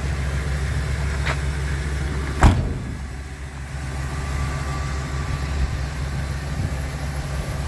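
Ford E-450 box truck's engine idling with a steady low rumble. A light click comes about a second in, and a sharp knock, the loudest sound, comes about two and a half seconds in.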